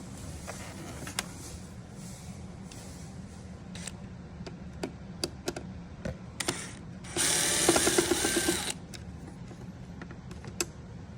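A power screwdriver or drill spins for about a second and a half, about seven seconds in, backing out a dash trim screw. Scattered sharp clicks of tool and plastic handling come before and after it.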